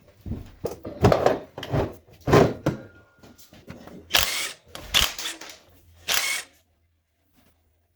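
Irregular clanks, clicks and scrapes of hand tools and metal engine parts being handled during an engine teardown, stopping about six and a half seconds in.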